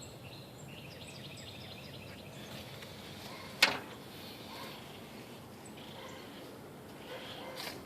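Outdoor background with small birds chirping, and one sharp click or knock about three and a half seconds in.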